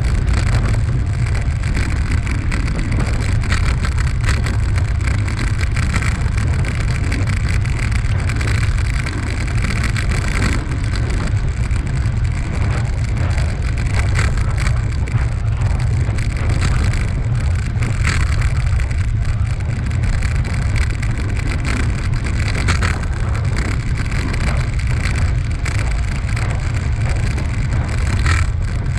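Wind rushing over the microphone of a camera carried while riding, a steady low rumble with an even hiss above it.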